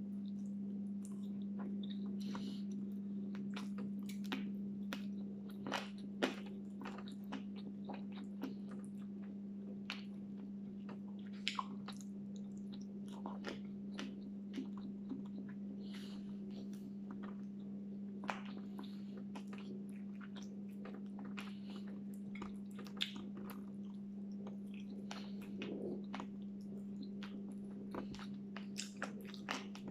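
Close-up chewing and biting as a person eats rice and meat by hand, with many short, irregular mouth clicks. A steady low hum runs underneath.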